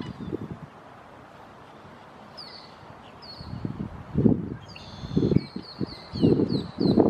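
A bird calling over and over in short, quick falling chirps from about two seconds in. Louder, irregular low thuds or buffets come several times in the second half.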